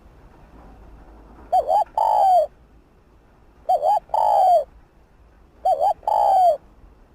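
Spotted dove cooing: three calls about two seconds apart, each a quick double note followed by one longer, falling coo.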